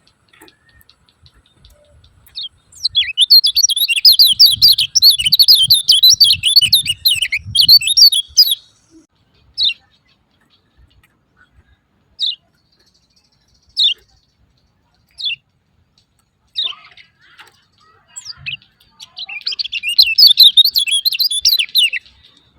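Kecial kuning, a small white-eye, giving its rapid 'ciak ciak' chatter: two dense bursts of quick high chirps, with single chirps spaced out between them.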